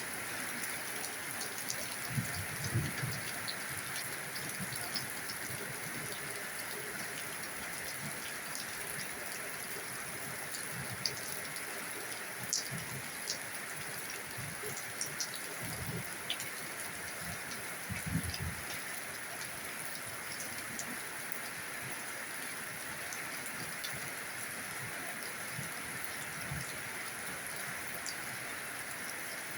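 Steady rain falling, with scattered ticks of individual drops and a few dull low thuds.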